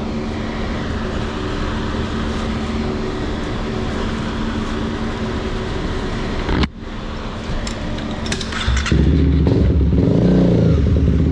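Motorcycle engine running steadily as the bike is ridden, with a sudden brief break about two-thirds of the way through. It grows louder near the end as the throttle opens and the engine pitch rises.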